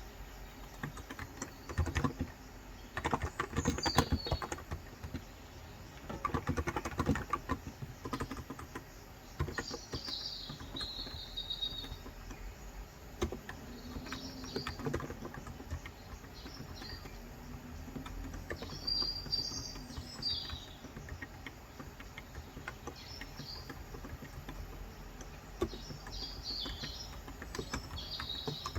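Bursts of typing on a Cox Endeavor 35 g electro-capacitive tenkeyless keyboard, quick runs of soft key clicks with pauses between them. Short bird chirps come in at intervals.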